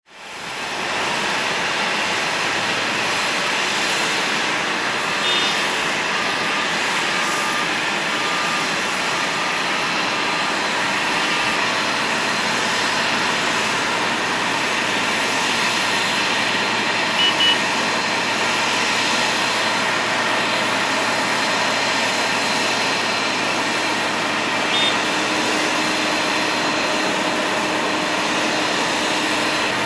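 Boeing 777-200 jet engines running steadily. The sound fades in over the first second, then holds at an even level.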